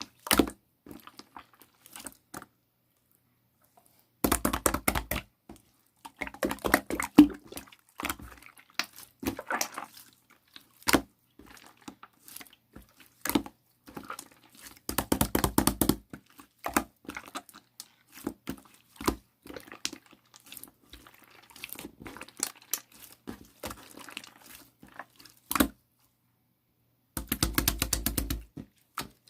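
Chewy glitter slime being squeezed, stretched and pressed by hand, making scattered sticky clicks and small pops. Three runs of rapid popping come about four, fifteen and twenty-seven seconds in.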